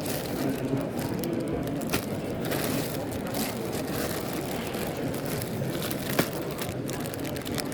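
Steady background hubbub of a busy indoor or outdoor sale, with sharp clicks about two seconds in and just after six seconds.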